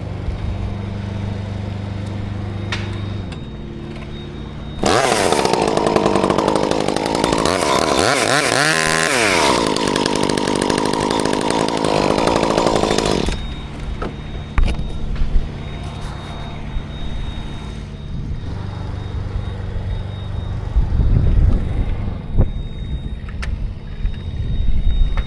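Chainsaw running at full throttle for about eight seconds, its pitch dipping and recovering midway as it bogs down in the cut. An engine runs steadily underneath, and a few knocks and thumps follow after the saw stops.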